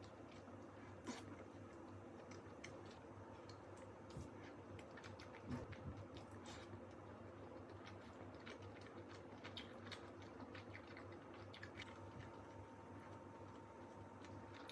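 Faint eating sounds, with scattered soft clicks and chewing over quiet room tone.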